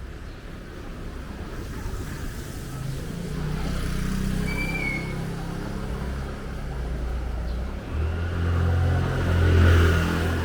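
A motor vehicle's engine running close by in the street, its hum growing louder toward a peak near the end as it approaches. A short high chirp sounds about four and a half seconds in.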